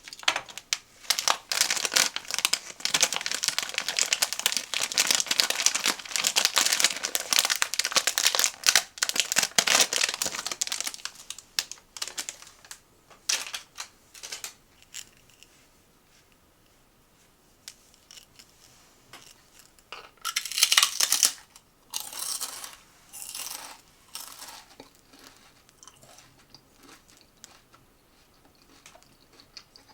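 Snack packaging crinkling and being torn open by hand. The crinkling is dense and continuous for the first ten seconds or so, then thins out to scattered rustles, with short loud bursts around the twenty-second mark.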